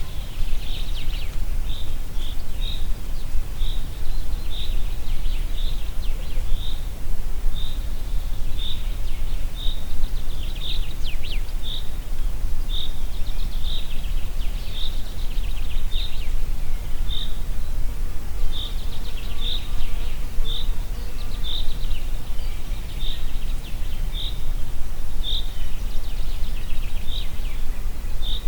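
Wind in a forest giving a steady low rumble, while a bird repeats a short, high chirp about once a second and other birds twitter now and then.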